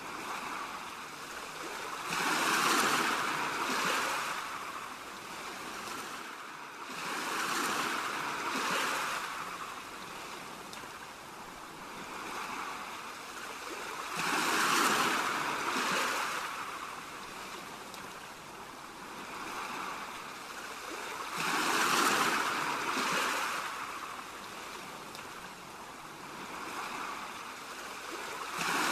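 Ocean waves washing onto a shore, the surf swelling and falling back in slow surges about every six to seven seconds.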